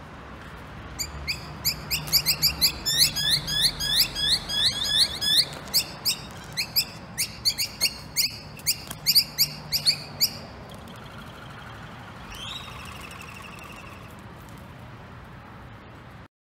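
Small birds chirping rapidly: a fast series of sharp, falling chirps, several a second, for about ten seconds, then a short buzzy falling call a couple of seconds later, over a steady low background hum.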